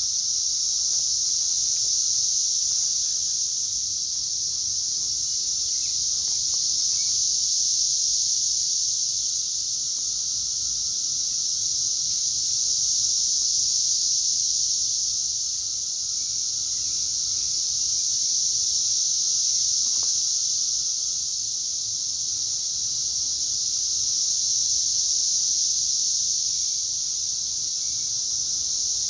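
Chorus of cicadas: a dense, steady, high-pitched buzz that swells and eases in slow waves about every six seconds.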